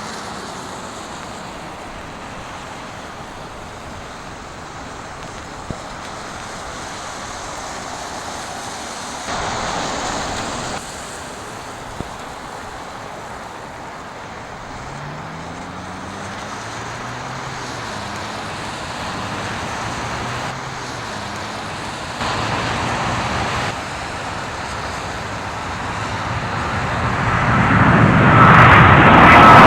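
A steady outdoor rumble with a couple of short louder swells, then a jet airliner's engines at takeoff power growing steadily louder over the last few seconds as it rolls down the runway toward the microphone.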